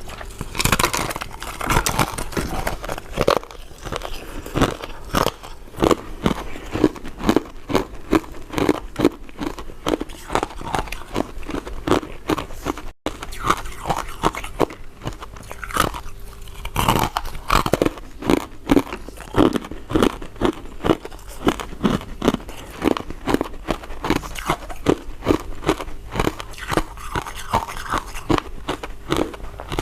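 Close-miked chewing of soft, powder-coated mint candies: a steady run of quick mouth clicks and smacks, about two chews a second, with a momentary dropout about thirteen seconds in.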